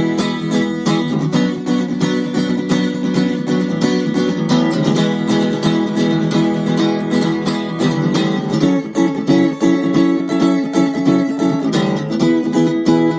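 Kramer Ferrington KFS-2 thin-body acoustic-electric guitar played with strummed chords in a steady rhythm.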